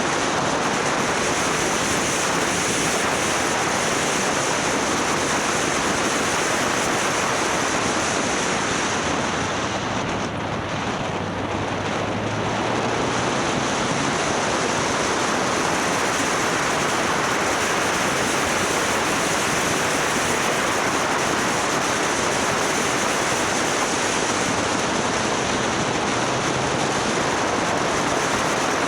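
Steady wind rush over the microphone of a camera on a moving motorcycle, with the bike's engine as a faint low hum beneath that shifts in pitch about ten seconds in.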